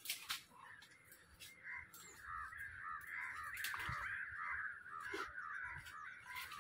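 Faint chatter of birds: many short calls repeated rapidly, starting about a second and a half in and fading near the end, with a few sharp clicks.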